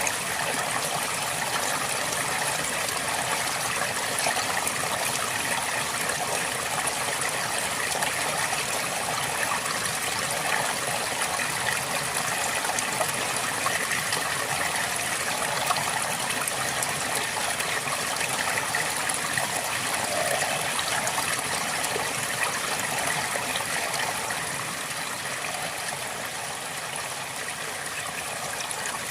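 River water flowing steadily over stones, a constant rushing and babbling, slightly quieter for a few seconds near the end.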